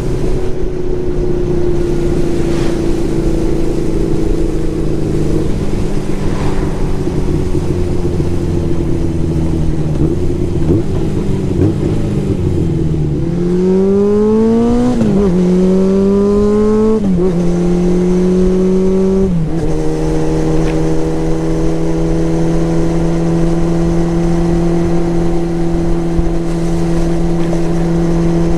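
Motorcycle engine heard from the moving bike. It runs steadily with the revs easing off, then about halfway through it accelerates through three gear changes, the pitch climbing and dropping at each shift, before settling into a steady cruise.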